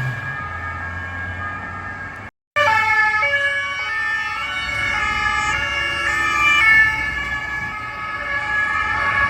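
Several French police two-tone sirens overlapping, each stepping back and forth between two pitches, with the vehicles' engines underneath. The sound cuts out completely for a moment about two and a half seconds in.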